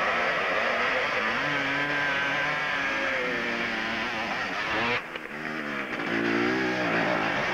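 Motorcycle engine revving hard on a steep hill climb, its pitch rising and falling with the throttle. About five seconds in the sound drops off suddenly, then the engine revs up again.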